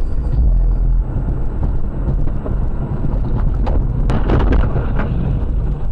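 A vehicle's low, steady engine and road rumble, with wind buffeting the microphone. A cluster of sharp knocks and rattles comes about three and a half to five seconds in.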